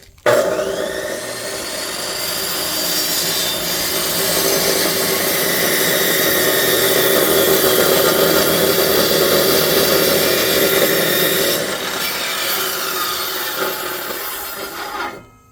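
An electric power saw starts, its motor whining up to speed, and cuts steadily through firewood for about fifteen seconds before stopping near the end.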